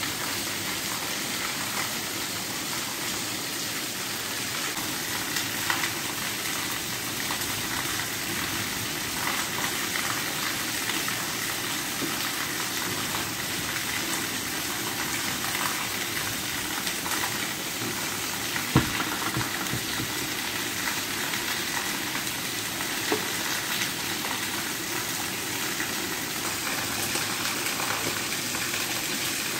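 Heavy rain pouring steadily onto leaves and a concrete yard, an even hiss throughout. One sharp knock stands out about two-thirds of the way through.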